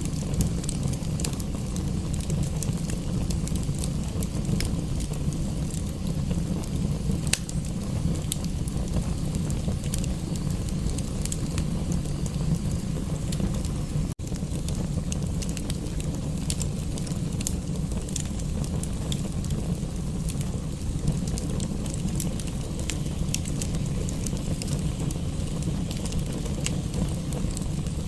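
Wood fire crackling with frequent sharp pops and snaps over a steady low rushing rumble. The sound cuts out for an instant about halfway through.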